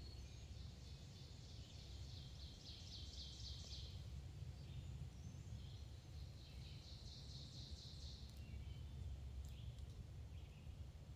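Songbirds singing faintly: two long phrases of quickly repeated high notes, one starting about a second in and another past the middle, with a few short notes near the end, over a steady low rumble.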